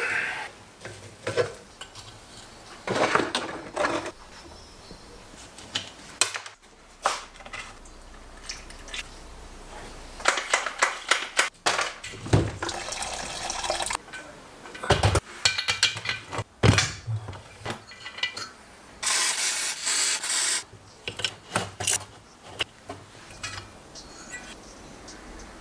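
Workshop handling sounds: irregular metal clinks and knocks, with several short bursts of hissing noise, the longest lasting about a second and a half near the end.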